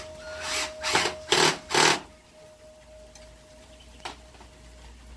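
Broom sweeping a porch floor: four quick scraping strokes in the first two seconds, then a single short tap about four seconds in.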